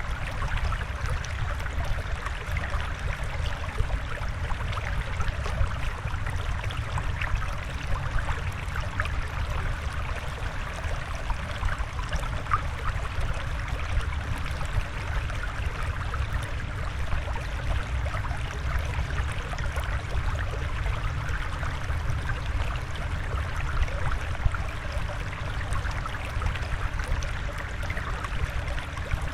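Steady flowing water with a low rumble beneath it, unbroken and even throughout.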